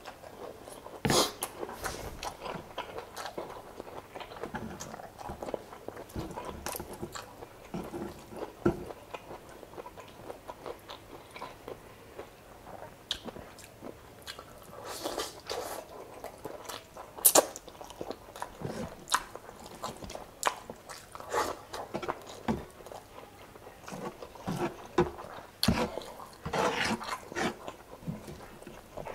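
Close-up mukbang eating sounds: a person chewing and biting chicken adobo in coconut milk with rice, with wet smacks and a few sharp clicks, the loudest at about one second and about seventeen seconds in.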